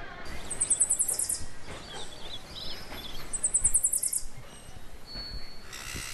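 Birds chirping: a very high, rapid trill repeated three times about three seconds apart, with softer chirps in between.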